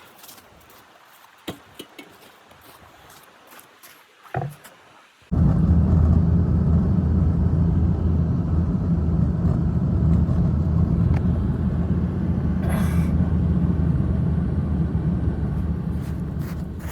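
A few faint clicks, then about five seconds in a loud, steady, low rumble starts suddenly, like an engine running. It holds for about eleven seconds and eases off slightly near the end.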